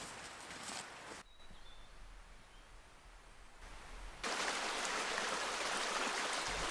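Outdoor sound in short cuts: a quieter stretch with a few faint, high chirps, then from about four seconds in a loud, steady rush of flowing river water.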